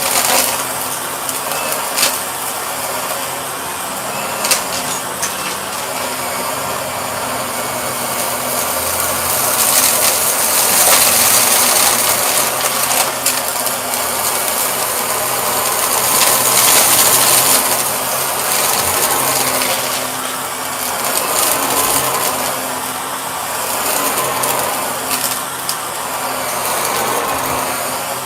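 Purple Shark vacuum cleaner running steadily, with debris clicking and rattling up through it in the first few seconds and the noise swelling louder twice as it is pushed along.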